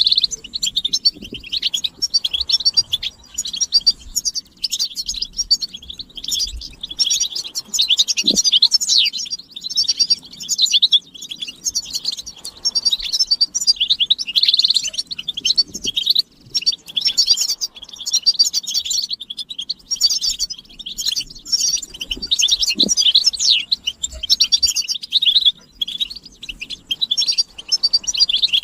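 European goldfinches twittering and chattering in a dense, fast stream of high chirps and trills with only brief pauses. These are the excited group calls that keepers play to set a male goldfinch singing.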